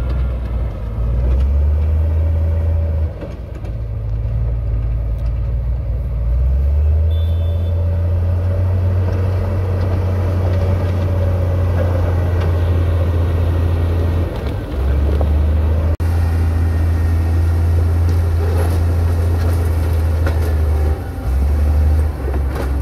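Heavy diesel construction machinery running, a deep low rumble that shifts in level every few seconds as the engines work.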